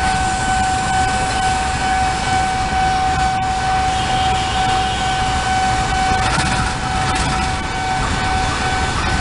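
Train running past a closed railway level crossing, a steady rumble, with a continuous high warning tone from the crossing signal held over it.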